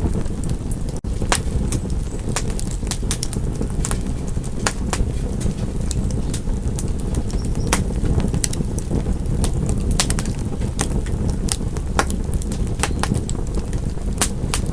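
Wood fire in a fireplace crackling, with frequent irregular sharp pops and snaps over a steady low rumble. The sound cuts out for an instant about a second in.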